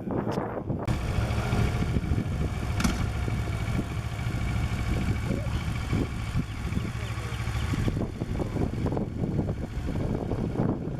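Kawasaki Ninja 650R motorcycle's parallel-twin engine running steadily at low revs while the bike is ridden slowly.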